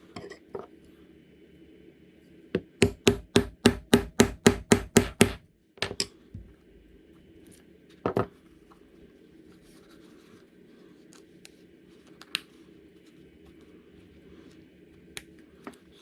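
A mallet striking a leather-working tool: a quick run of about a dozen sharp strikes, roughly four a second, then a couple of single strikes and a few light knocks and taps.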